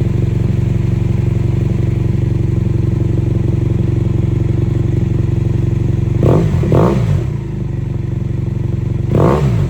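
BMW F800GS parallel-twin engine idling through a Delkevic oval slip-on exhaust with its baffle in. The engine is blipped twice in quick succession about six seconds in, and once more near the end, the pitch rising and falling back each time.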